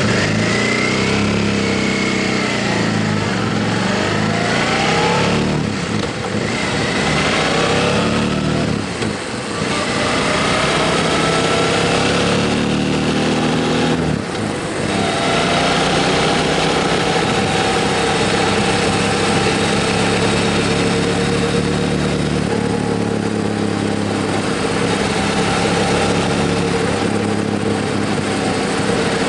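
Motorcycle engine under way, revving up with rising pitch and easing off briefly about 6, 9 and 14 seconds in, as at gear changes, then running steadily.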